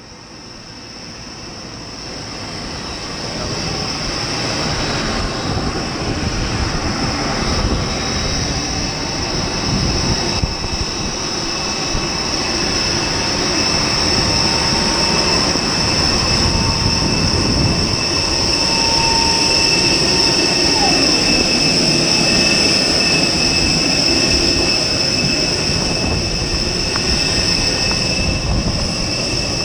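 Steady jet whine over a rumble from aircraft on an airport ramp, fading in over the first few seconds. A fainter tone slides down in pitch about two-thirds of the way through.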